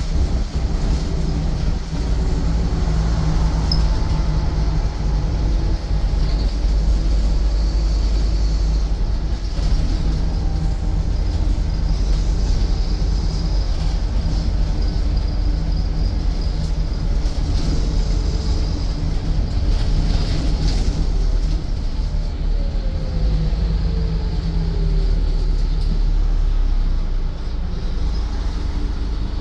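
Scania N230UD double-decker bus's five-cylinder diesel engine running, heard from inside the bus as it is driven, with tyre and body noise. Near the end the engine note falls once.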